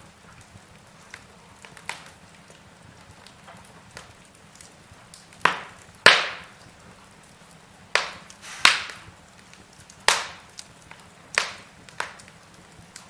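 Logs burning in a fireplace, crackling with irregular sharp pops and snaps. Small ticks at first, then about seven louder pops in the second half of the stretch.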